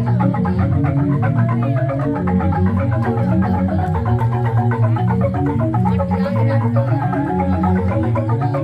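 Balinese jegog bamboo gamelan playing: fast, dense interlocking strikes on bamboo-tube xylophones over long, deep bass notes that change every second or so.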